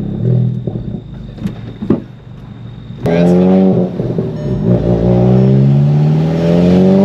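Volkswagen Golf GTI Mk7's turbocharged 2.0-litre four-cylinder, fitted with a larger IS38+ turbo, heard from inside the cabin. The engine runs steadily and eases off quieter, then about three seconds in it gets suddenly louder and pulls, its pitch rising steadily as the car accelerates.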